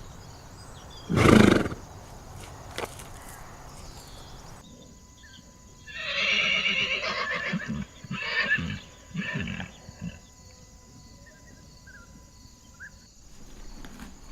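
A horse neighing: a long, quavering whinny about six seconds in, followed by two shorter calls. A short, loud noisy burst comes a little over a second in.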